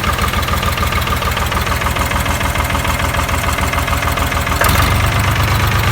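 The David Brown three-cylinder diesel of a Case 380 Construction King tractor idling just after starting, with an even low pulsing beat. About two-thirds of the way in there is a short sharp click, and the engine runs a little louder after it.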